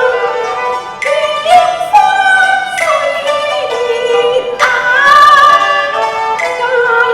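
Cantonese opera song: a high voice sings long, wavering, gliding notes over bowed-string accompaniment, starting new phrases about a second in and again near five seconds.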